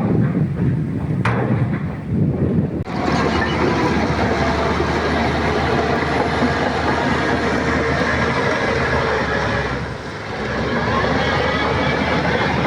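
Shantui crawler bulldozer's diesel engine running under load with its steel tracks clanking. There is a sharp knock about a second in, and the sound becomes steady and dense about three seconds in.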